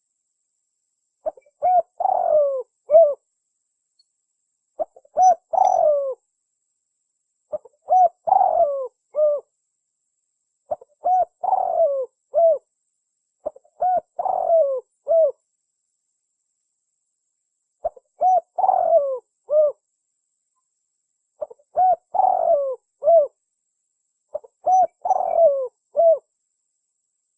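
Spotted dove (tekukur) singing its cooing song: a short phrase of several coos, repeated about eight times, roughly every three seconds, with a longer pause about two-thirds of the way through.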